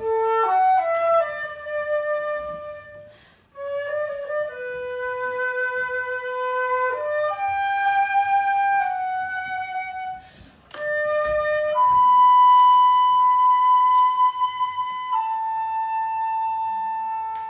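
Solo flute playing a slow melody of held notes, in phrases broken by short pauses about three and a half and ten seconds in, ending on long sustained high notes.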